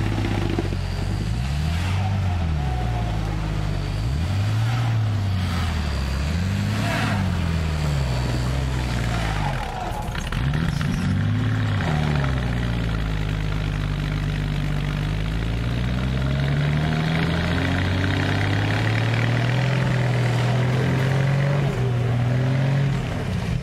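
Off-road 4x4's engine under heavy load on a steep mud climb, revving up and dropping back in repeated surges, then held at steadier revs that slowly climb over the second half.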